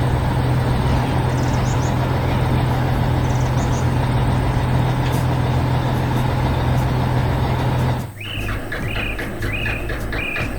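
A heavy machine's engine running at a steady pitch with a strong low hum. About eight seconds in it cuts off abruptly, giving way to a run of short, high chirping notes.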